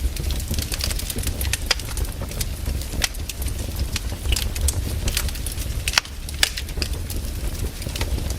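Firewood burning, crackling with irregular sharp pops over a steady low rumble; the loudest pops come about three and six seconds in.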